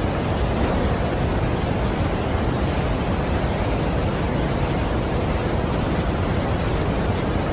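Steady rush of a large waterfall: an even, unbroken wash of falling water, deepest in the lows, with no changes or separate events.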